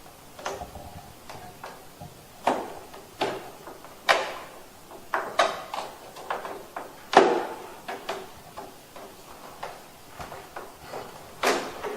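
Plastic clicks and knocks as the air-flow deflector (louvre) of a wall-mounted split air conditioner is handled and fitted into its end hinges, with the loudest snaps about 4 and 7 seconds in.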